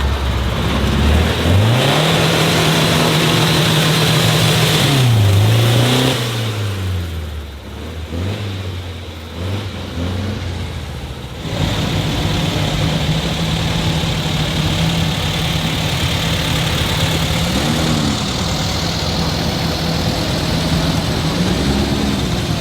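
A car engine revving: it climbs about a second in, holds high revs for a few seconds, then drops back and wavers at lower speed. About halfway through it changes abruptly to a steady high-speed run, with two short blips of the throttle near the end.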